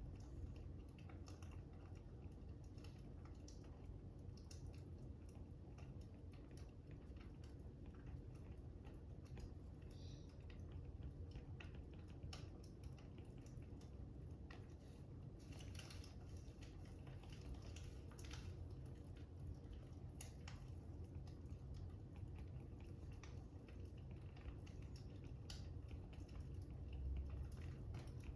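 Faint fire crackling: scattered, irregular small pops and snaps over a low steady rumble.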